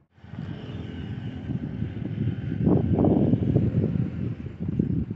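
Renault Triber's three-cylinder petrol engine revving as the car pulls away over loose dirt, growing louder about halfway through with rough surges as it climbs.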